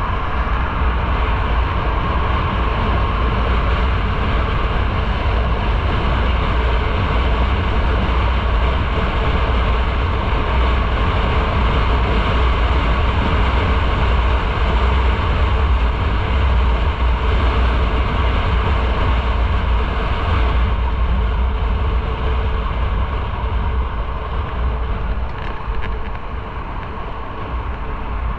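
Motorcycle on the move: the engine runs under a steady rush of wind noise on the microphone, heavy in the low rumble. The noise eases over the last several seconds as the bike slows.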